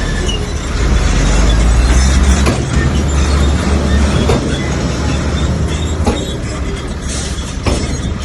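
Old Komatsu bulldozer's diesel engine running under load, a deep steady rumble that swells about a second in and eases a little later, with scattered metallic clanks from its steel tracks and the rock it is pushing.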